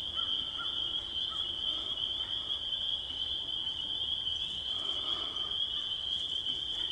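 Chorus of frogs calling, a steady high-pitched trill with a few faint short calls lower down.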